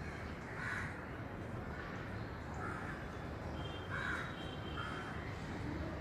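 A bird giving short, harsh calls, repeated about six times at irregular intervals, over a steady low background hum.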